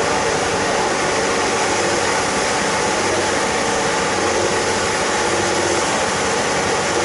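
Excavator engine running steadily, an even heavy drone with no change in pitch or level.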